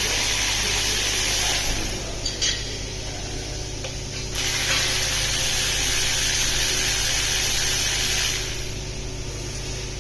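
A steady hissing spray in two long bursts, the first stopping about two seconds in and the second starting about halfway and stopping near the end, with a few light clicks in the gap.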